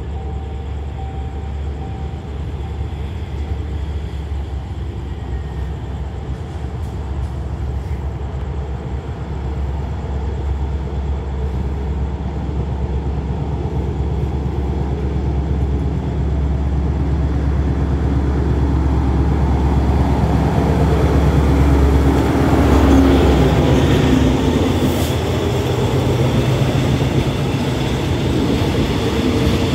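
Diesel-hauled express passenger train pulling into a station. A low locomotive engine drone grows steadily louder as it approaches. Wheel and rail rumble swells in as the locomotive and carriages draw alongside, loudest a little past the middle, then eases slightly as the coaches roll slowly by.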